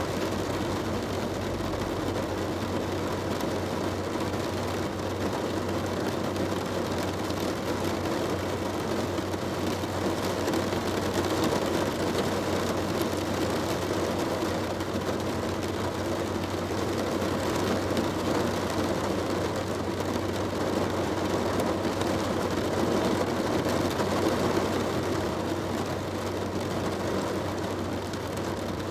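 Heavy rain drumming steadily on a car's roof and windscreen, heard from inside the car, with a low steady hum underneath.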